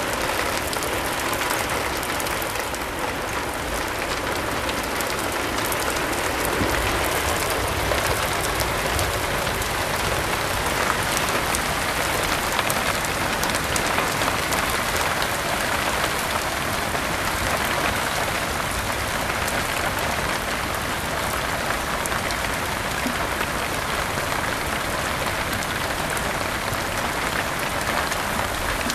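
Heavy rain falling steadily, a dense, even patter with no break.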